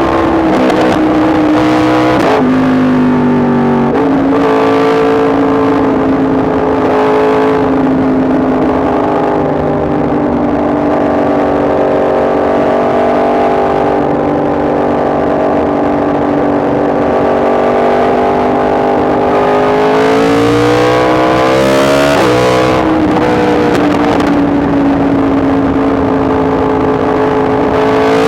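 Yamaha MT-10 SP's crossplane inline-four engine running under way. It holds a steady, slowly sagging note for much of the time, climbs about 20 seconds in, and drops sharply with a gear change a couple of seconds later, with further pitch changes early on and near the end.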